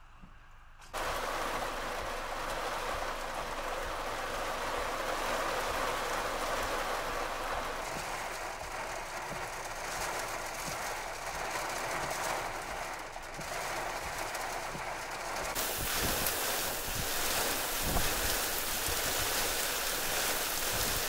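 Heavy rain pouring down as a steady hiss. It starts suddenly about a second in and gets heavier and hissier about 15 seconds in.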